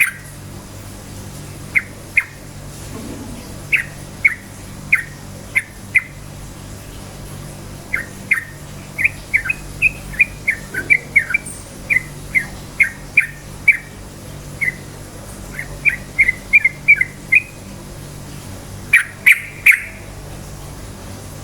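Yellow-vented bulbul (trucukan) singing: short, sharp whistled notes in quick clusters, running into a rapid string of notes in the middle and a loud burst near the end. A steady low hum sits beneath.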